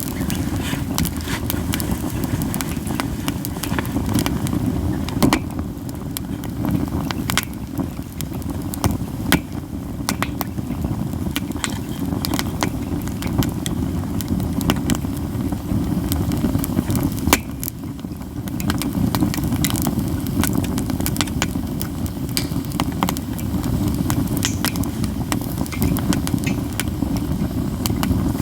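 Katsura wood burning in a campfire, crackling constantly with frequent sharp, snapping pops, over a steady low rumble.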